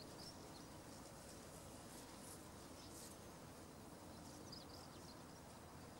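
Near silence: faint outdoor ambience with a few faint, high, short bird chirps, just after the start and again about four and a half seconds in.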